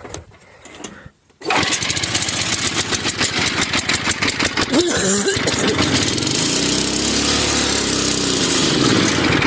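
Cold Tecumseh flathead small engine on choke catching suddenly about a second and a half in, then running loudly and unevenly. Its speed swells and falls once in the second half.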